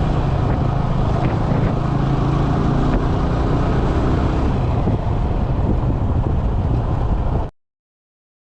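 Yamaha R15 V3's 155 cc single-cylinder engine running while riding, mixed with heavy wind rush on the microphone. The sound cuts off abruptly about seven and a half seconds in.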